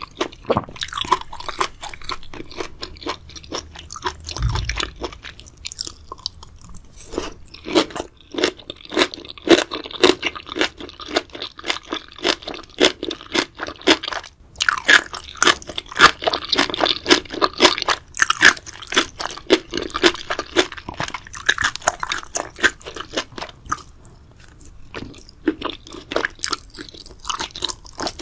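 Close-miked chewing of crunchy food, with a quick, dense run of crisp crunches and bites.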